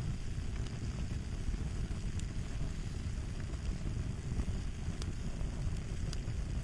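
Fire crackling: a steady low rumble of burning with scattered small, sharp crackles and pops.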